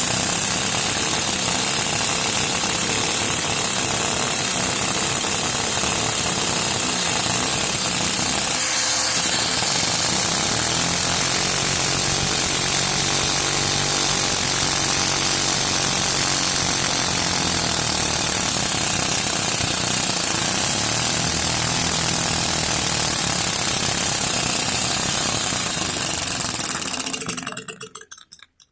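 Mini single-cylinder LEGO vacuum engine running very fast, a rapid steady plastic clatter over the steady rushing whine of the vacuum cleaner that drives it. It cuts off suddenly near the end.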